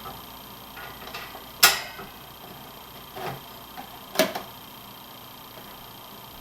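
Hampton Bay desk fan's plastic parts being handled while its loose blade is refitted to the shaft: two sharp clicks, about a second and a half in and about four seconds in, and a softer knock between them, over a faint steady hum.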